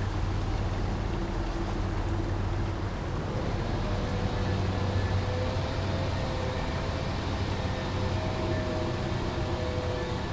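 Small brook running steadily, with a low hum of vehicles underneath that swells and fades.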